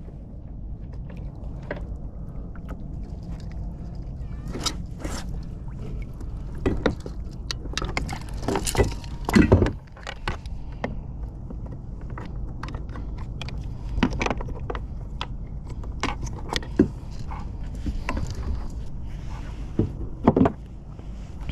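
Scattered knocks, clicks and rattles of fishing gear being handled on a kayak, over a steady low rumble of wind and water on the hull, with a busier flurry of knocks about halfway through.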